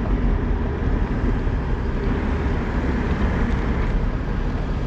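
Toyota Troop Carrier driving slowly, a steady low engine and road rumble heard from inside the cabin.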